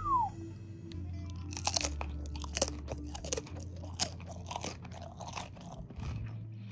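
Close-up crunching and chewing of a crisp Wellington cracker topped with tuna salad. A run of sharp crunches starts about a second and a half in and thins out near the end.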